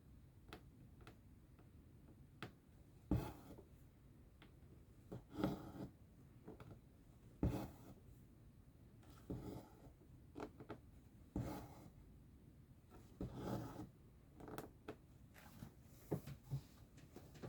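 Cross-stitch needle and thread pulled through fabric: a soft swish of thread about every two seconds, with small clicks of the needle between the pulls.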